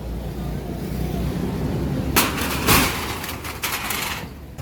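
A low engine rumble, then from about two seconds in a run of loud crashes and bangs, the strongest near the middle, as a roadside structure is knocked down in demolition work.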